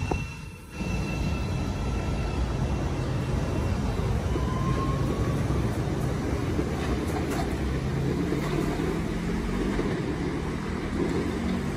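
CTA 5000-series L train pulling out of an elevated station and running off along the track: a steady rumble of wheels on rail, with a faint rising whine about four seconds in.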